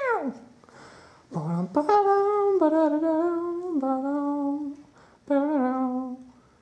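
A person humming a wordless tune: a quick downward swoop, then a run of held notes stepping down in pitch, a short break about five seconds in, and a final brief phrase.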